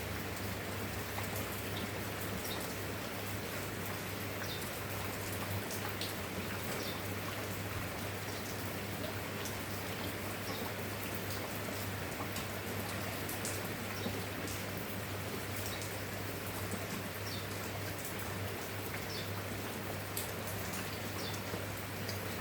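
Steady rain falling, with scattered individual drops ticking sharply against a surface, over a constant low hum.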